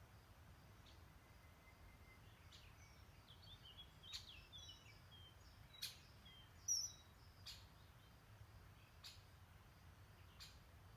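Faint birdsong: several small birds chirping and twittering in short high notes, with a few sharp single calls, the loudest about two-thirds of the way in, over a steady low background rumble.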